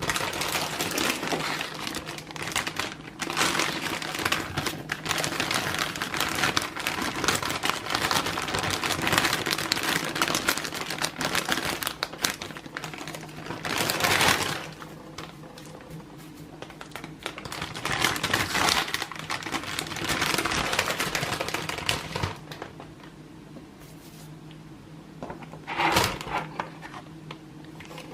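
Crinkling and clicking of plastic packaging being handled and unpacked, in long busy stretches broken by short pauses.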